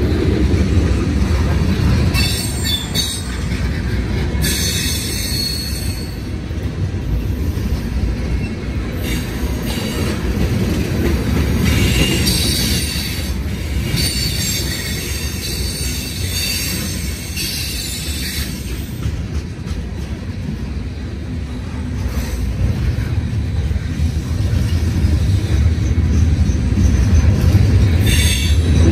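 Freight train of tank cars and covered hoppers rolling past at a grade crossing: a steady low rumble of wheels on rail, with high-pitched wheel squeal coming and going several times.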